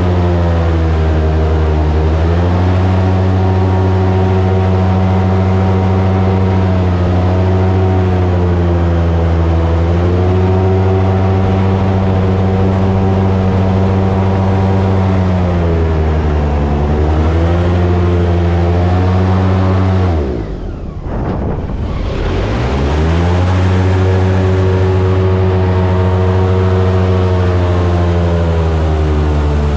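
Airboat engine and propeller running loud at speed, the pitch sagging and recovering several times as the throttle is eased and opened. About two-thirds of the way through the engine drops sharply to a low rumble, then winds back up to full speed over a couple of seconds.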